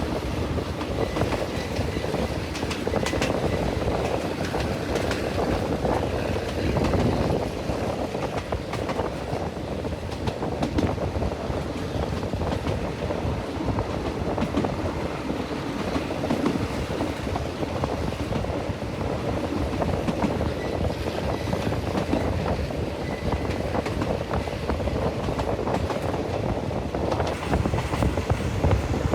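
Train running on the rails: a steady rumble with frequent clicks of the wheels over the rail joints.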